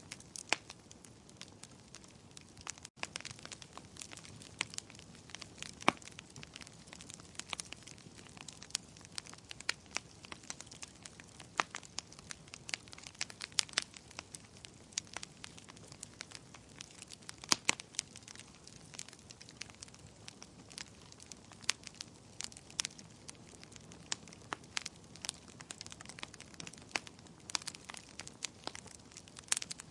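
Bonfire crackling: sharp, irregular snaps of burning wood, several a second, over a low steady hiss.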